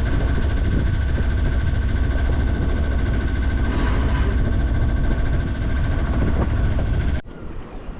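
A sailboat's auxiliary engine running steadily under way, a low, heavy drone with a faint steady whine above it. It cuts off suddenly near the end.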